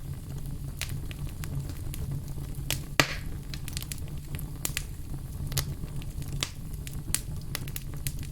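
Wood fire burning in a fireplace: a steady low rumble of flames with scattered crackles and pops from the burning logs, the loudest pop about three seconds in.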